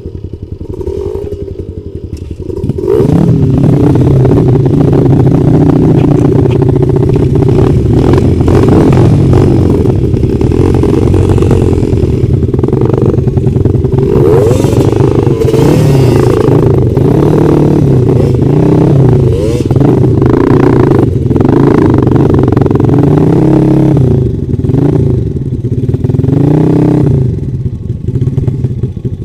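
Trail motorcycle engine running quietly, then about three seconds in it gets loud and keeps revving, its pitch rising and falling over and over as the throttle is opened and closed.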